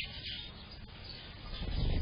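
Songbirds chirping faintly, with a low rumble building up near the end.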